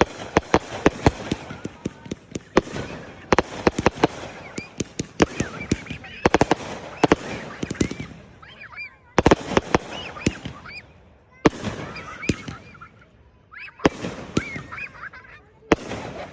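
Backyard consumer fireworks going off: rapid cracks and pops in dense clusters, with short lulls about nine and thirteen seconds in.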